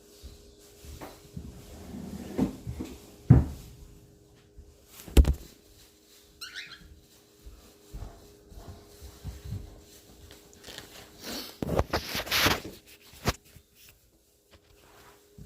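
Scattered sharp knocks and rustling handling noises, with a short high chirp about six and a half seconds in.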